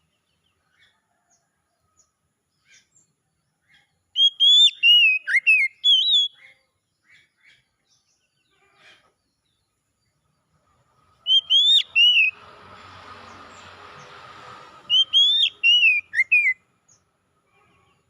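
Oriental magpie-robin singing: three bursts of loud, sharp whistled phrases with quick up-and-down glides, with faint chirps between them. A rough, hissing sound runs for about two seconds after the second burst.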